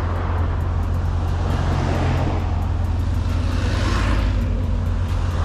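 C7 Corvette's V8 droning steadily at cruise, heard from inside the cabin with tyre and road noise. A rushing noise swells and fades around the middle.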